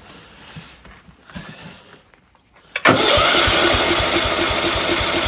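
Gravely Commercial 10A's engine being cranked by its electric starter, beginning about three seconds in after a short click, and turning over with a steady rhythmic chug without catching. The engine won't fire, which the owner takes for a lack of spark from dirty points.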